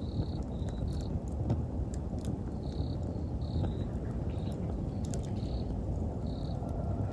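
Wood fire crackling with scattered sharp pops over a steady low rumble, while autumn insects (crickets) chirp in short high repeated calls.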